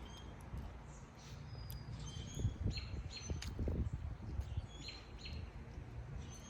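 Small birds chirping, with a scatter of short high chirps and whistles, over a low rumble.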